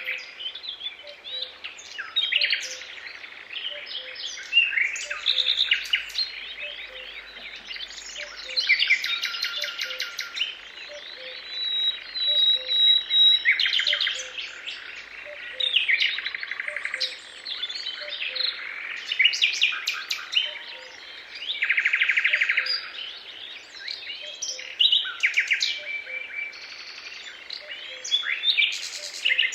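Several songbirds singing at once: overlapping chirps, rapid trills and whistles. A faint low note repeats more than once a second beneath them.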